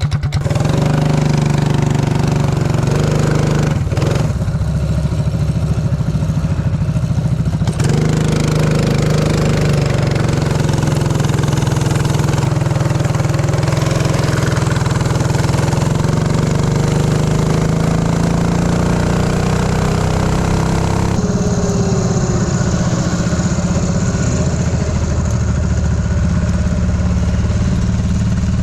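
Mini bike's small engine running, louder from the start, its pitch slowly rising through the middle and then dropping about three quarters of the way through as the throttle is eased off.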